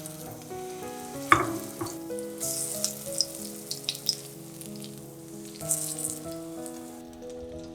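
Food frying in hot oil, sizzling with scattered crackles. A single sharp knock comes about a second in.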